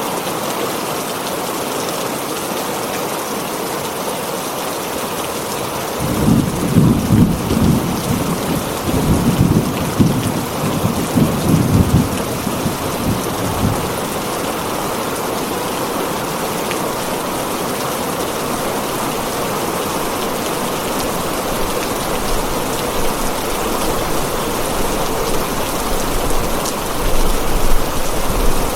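Heavy rain falling steadily on a tin roof, with thunder rolling in low, uneven surges from about six seconds in until about fourteen seconds, and a fainter low rumble near the end.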